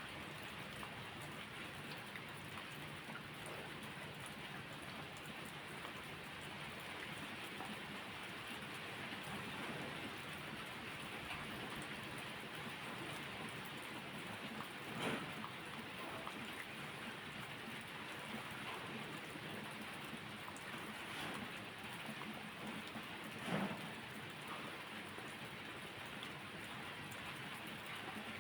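Steady rain falling on surfaces, an even hiss throughout. Two short, louder pops stand out, one about halfway through and one near the end.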